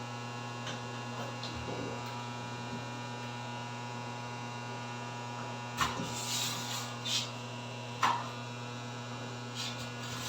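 Steady electrical hum, with a few handling noises as a peel-and-stick tile is positioned: a sharp click about six seconds in, a brief rustle, and a knock about eight seconds in.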